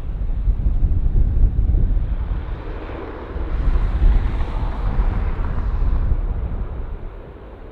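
Jet airliner passing close by, its engine noise swelling to a peak about four seconds in and then fading, over heavy wind rumble on the microphone.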